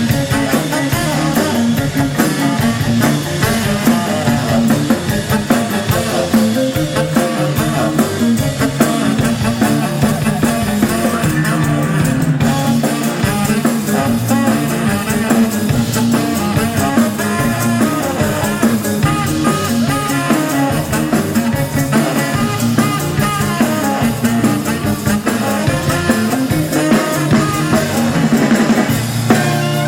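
Live rock and roll band playing an instrumental break, with drums, bass and guitar and no vocals.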